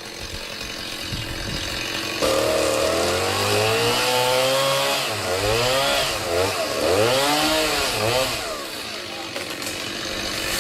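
Chainsaw engine revving hard from about two seconds in, its pitch climbing and dipping several times as the chain bites into a branch, then easing back.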